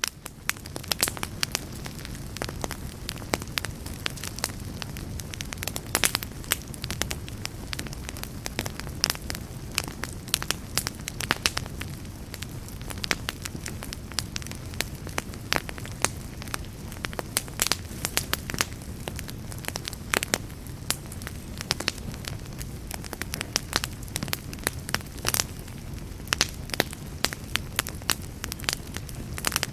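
Wood fire burning in a fireplace: a steady low rumble of flame with frequent, irregular sharp pops and crackles, fading in at the start.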